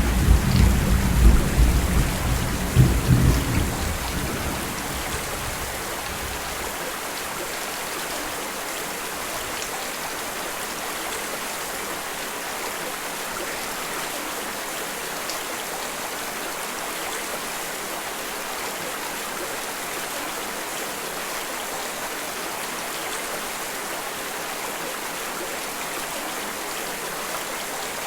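Thunder rumbling and dying away over the first few seconds, then steady rain falling.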